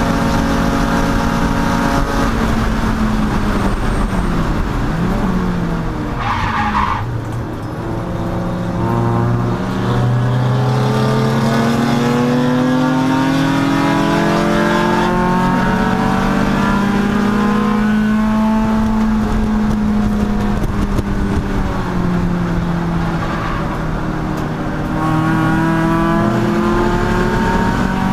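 Chump Car race car's engine, heard from on board, running hard. It lets off and the revs fall about two seconds in, and a brief tire squeal follows about seven seconds in. The engine then pulls back up through the revs, dips again briefly, and climbs once more near the end.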